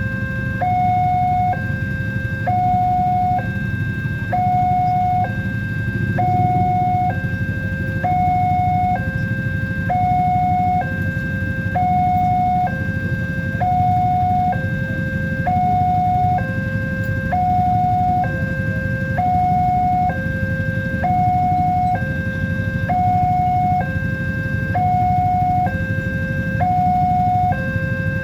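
Electronic railway level-crossing warning alarm sounding continuously, alternating evenly between a higher and a lower tone, each a little under a second long. A steady low rumble runs beneath it.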